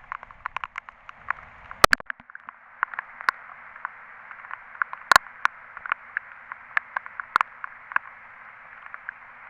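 Heavy rain pouring: a steady, muffled hiss with many sharp ticks of drops striking the waterproof camera, a few of them much louder than the rest.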